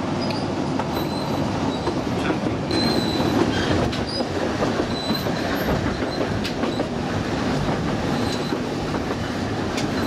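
Narrow-gauge train running along the track, heard through an open carriage window: a steady rumble of wheels on rail with scattered light clicks and several short, high squeals from the wheels.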